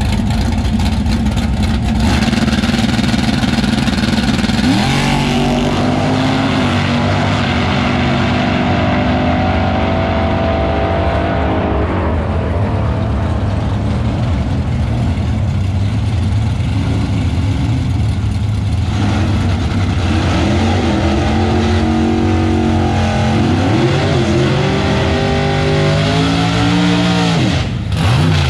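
Drag car engine revving hard. Its pitch jumps up about five seconds in and holds, then rises and falls several times before dropping away near the end.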